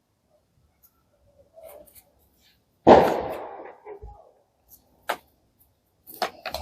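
A single sharp knock about three seconds in, ringing off over about a second, among a few small clicks and handling sounds as tools and material are being set up.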